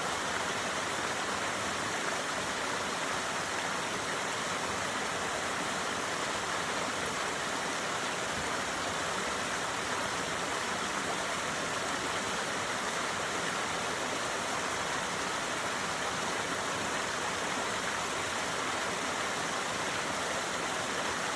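Small waterfall splashing and rushing steadily, an even wash of water noise with no pauses.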